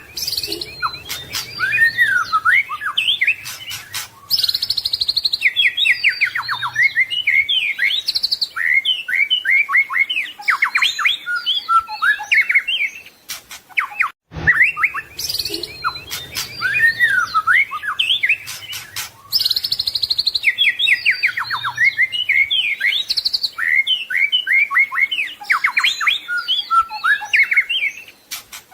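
White-rumped shama (murai batu) singing a long, varied song of whistled glides, rapid trills and harsh chattering notes, with phrases mimicking other birds. The same roughly 14-second stretch of song plays twice in a loop.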